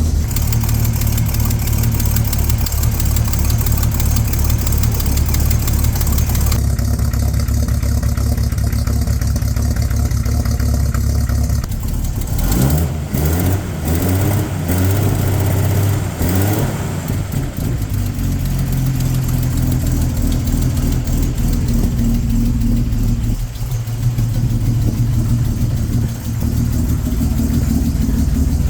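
Bentley Mark VI straight-six with twin SU carburettors idling just after a cold start, the engine still cold. Around the middle the engine speed rises and falls a few times, then it settles back to a steady idle.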